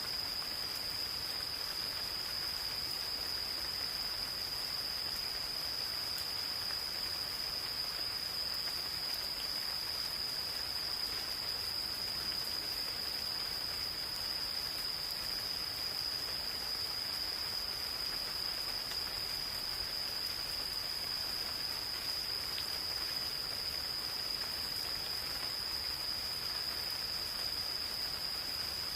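Insects calling in one continuous, unbroken high-pitched trill, over the soft steady hiss of gentle rain falling in a forest.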